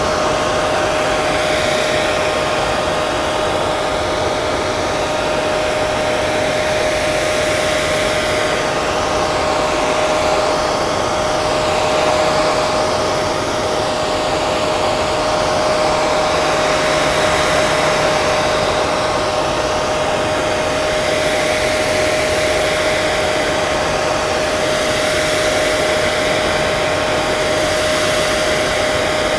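Hair dryer running steadily, an even rush of air with a constant motor whine.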